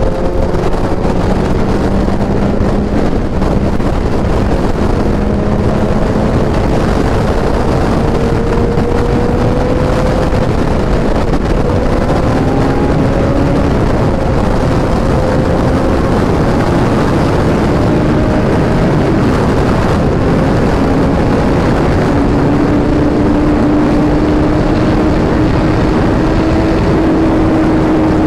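Suzuki Hayabusa's inline-four engine and exhaust holding a steady highway cruise, its note drifting slowly in pitch and climbing gently near the end, under constant wind rush on the microphone.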